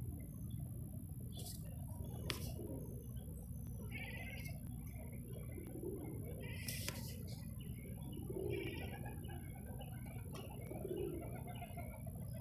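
Birdsong with a dove cooing in short low notes about every two and a half seconds, and higher chirps from small birds in between.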